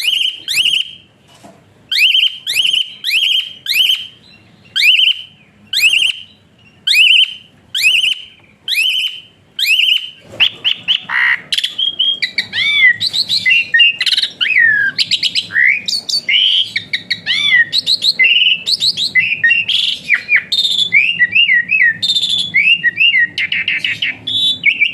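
Javan pied starling (jalak suren) singing in sharp whistles. For about the first ten seconds it repeats short whistled notes, roughly one to two a second. After that comes a dense, unbroken run of varied whistles with rising and falling glides.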